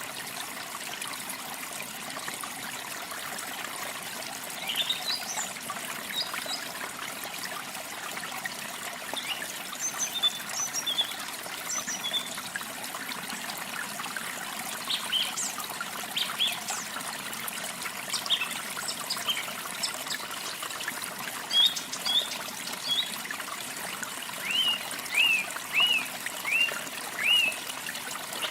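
Water trickling steadily, with small birds chirping here and there over it. Near the end one bird gives a quick series of five short falling chirps.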